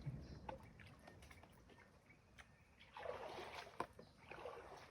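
Faint water splashing and trickling, with a few light knocks, from a fishing net being hauled out of the water. The splashing swells about three seconds in.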